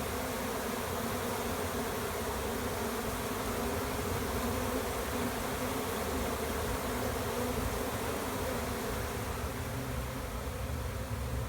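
A honeybee swarm buzzing around a nuc box as it is hived: a steady, dense hum of many bees that does not rise or fall.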